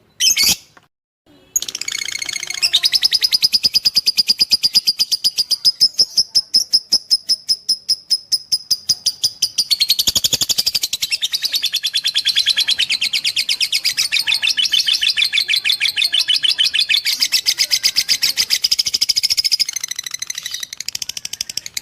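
Lovebird singing: a few short separate calls, then from about a second and a half in a long unbroken chattering trill of rapid, evenly spaced high chirps lasting nearly twenty seconds, cutting off suddenly at the end.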